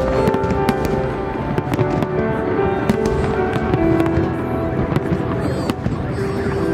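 Fireworks salute: shells bursting in a rapid, irregular run of bangs, over music with long held notes.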